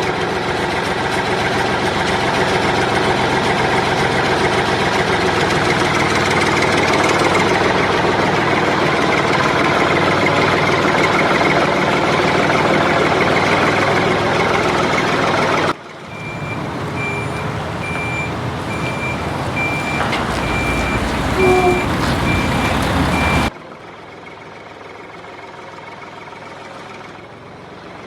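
Miniature DIY vehicle motors running steadily with a whine of many steady tones. After a sudden cut about two-thirds of the way in, the motor runs on while a reversing beeper beeps about one and a half times a second. Near the end it drops suddenly to a quieter, steady motor hum.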